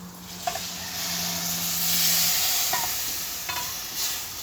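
Raw rice toasting with onion and bacon, sizzling as it is stirred, before any broth has gone in. The sizzle swells about two seconds in, with a few short scrapes.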